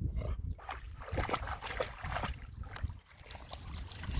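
Irregular small splashes and sloshing of shallow water around a small inflatable boat, over a low rumble of wind on the microphone.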